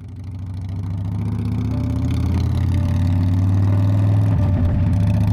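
Harley-Davidson V-twin motorcycle engine running with a steady low note, fading in at the start, with a brief change in the note about four seconds in.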